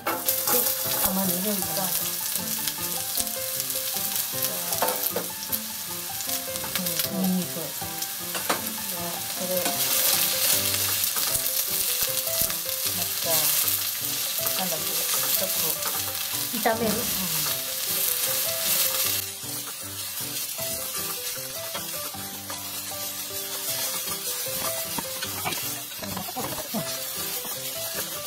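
Beef frying in hot olive oil in a deep pot: a loud, steady sizzle that comes in suddenly and eases a little about two-thirds of the way through, with a few light clicks.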